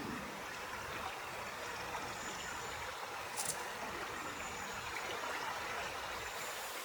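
River water flowing steadily, an even rushing hiss, with one brief tick about three and a half seconds in.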